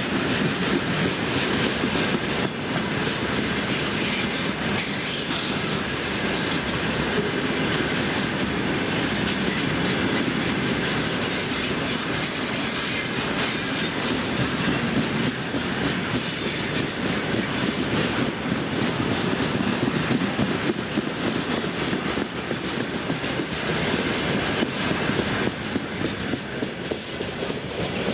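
A freight train of rail tank cars rolling past close by, its wheels clattering steadily over the rail joints with a continuous rumble.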